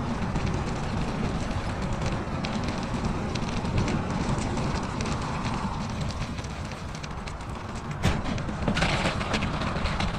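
Wind rumbling on the microphone over the crackling crunch of bicycle tyres rolling on snow. There is a sharp click about eight seconds in, then a brief louder crunch.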